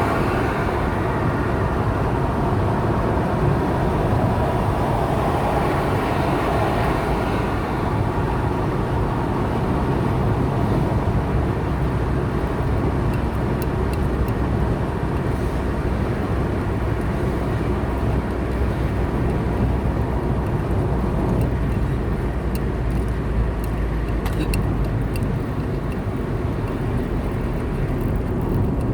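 A car driving along a road, with a steady engine and tyre rumble and a few faint clicks in the second half.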